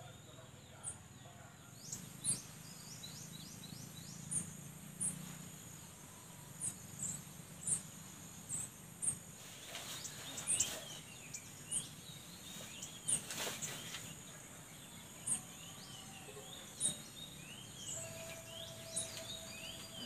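Orange-bellied flowerpecker chick giving short, high chip calls about once a second, with quicker small chirps around them and a steady insect hiss behind.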